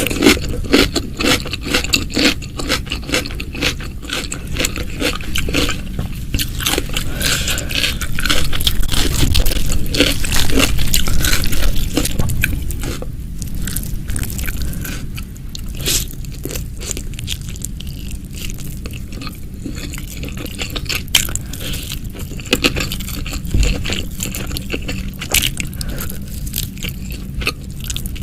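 Close-miked eating sounds: a person biting, crunching and chewing crisp food, with dense crackly clicks and some scraping. It is loudest about a third of the way in.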